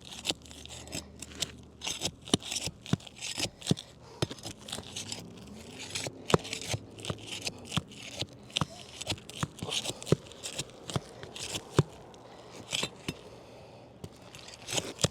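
Pry bar working under roof shingles to lift them and pull their nails: irregular sharp clicks and scraping, with short tearing sounds as the stuck shingles come loose.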